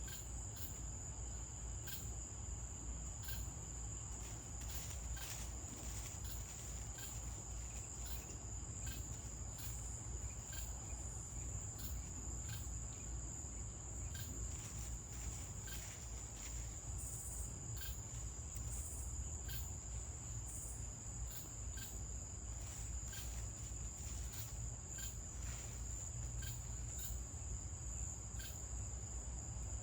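Night-time insect chorus, a steady high-pitched trill, with scattered short ticks over a low background rumble.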